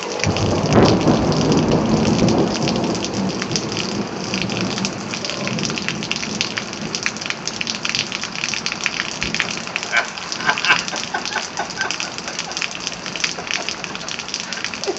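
Heavy thunderstorm rain falling steadily, with a low rumble of thunder in the first few seconds that swells and then fades away.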